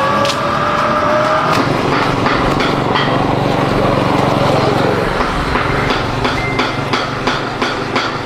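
A small engine running steadily, with a pitched tone sliding slightly upward in the first second or so and a run of sharp clicks, about three a second, in the last few seconds.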